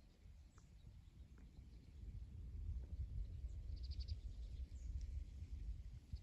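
A small bird gives a brief, fast string of high chirps about four seconds in, over a low steady rumble.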